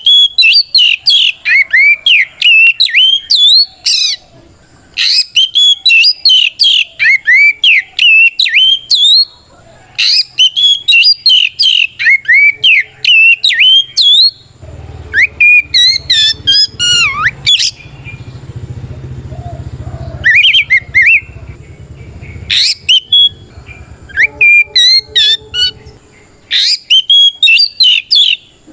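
Oriental magpie-robin (kacer) singing a loud, full fighting song: rapid runs of varied whistled notes in phrases several seconds long, broken by short pauses. It is a territorial challenge that calls out a rival.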